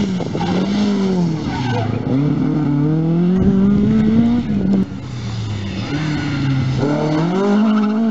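Ford Escort Mk1/Mk2 rally car engine and loud exhaust at full effort, the pitch rising and dropping several times as the driver accelerates, lifts and changes gear.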